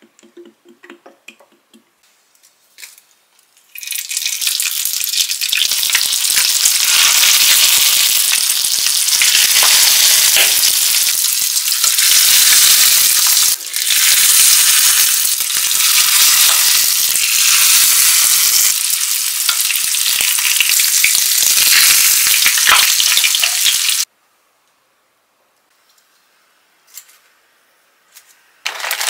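Rice-paper-wrapped pork pieces frying in hot oil in a pan: loud, dense sizzling and crackling. It starts about four seconds in, briefly breaks near the middle, and cuts off suddenly about twenty-four seconds in.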